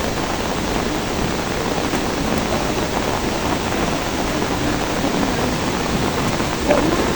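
Steady heavy rain falling, an even hiss with no breaks, briefly a little louder near the end.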